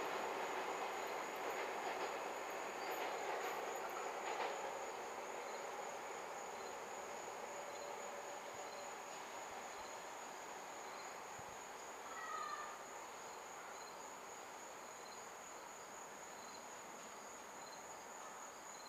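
A Metro-North M7-A electric multiple-unit train pulling away, its running noise fading steadily into the distance. A steady, high-pitched insect drone continues over it.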